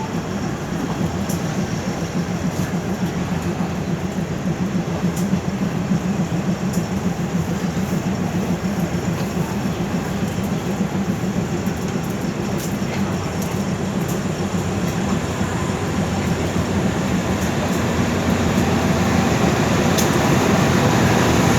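Thai ordinary passenger train running steadily on the rails, a continuous rumble with a few sharp clicks, growing a little louder near the end.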